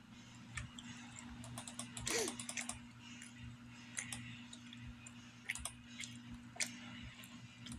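Scattered small clicks and mouth smacks from someone eating a chewy peanut granola bar, with a brief denser rustle about two seconds in.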